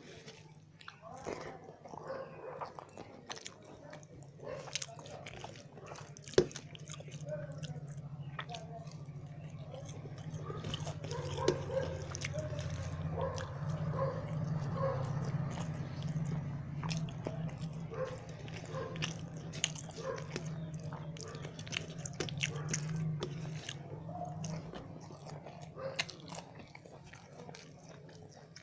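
A person eating a rice and curry meal close to the microphone: chewing, mouth smacks and small crunches, with many short clicks. A steady low hum runs underneath.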